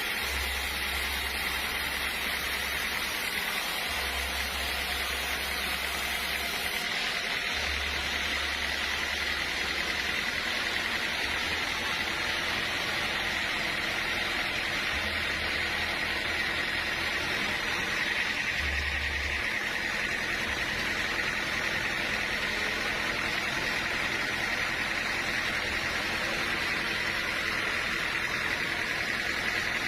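Sawmill machinery running steadily: an even hiss with a steady whine on top.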